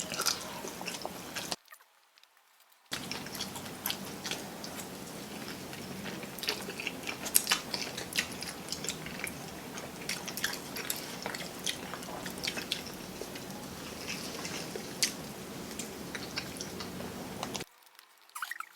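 Close-up eating sounds of people chewing and biting food, with many small crisp clicks and crunches. The sounds break off briefly about two seconds in, then run on until they drop away near the end.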